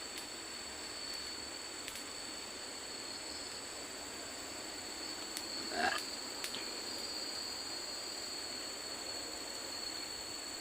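Tropical forest ambience: insects droning steadily in two high, even tones over a soft hiss, with one short rising animal call about six seconds in.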